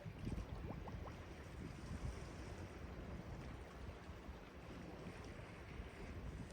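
Sea waves washing on the shore, a steady low rush of surf, with wind rumbling on the microphone.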